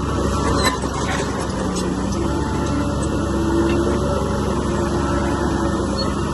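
Heavy earthmoving machinery running with a steady diesel engine rumble, with a single sharp clank about a second in.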